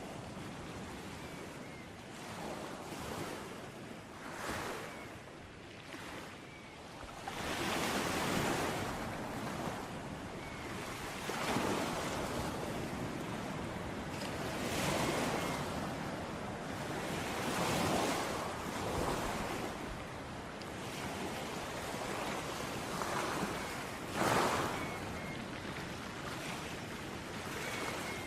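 Ocean waves on a beach: a steady wash of surf with a wave surging and breaking every three to four seconds, the sharpest and loudest break near the end.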